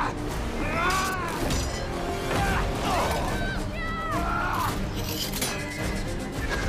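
Action-film soundtrack: dramatic score under shouting voices, with sharp crashes and breaking-glass sounds.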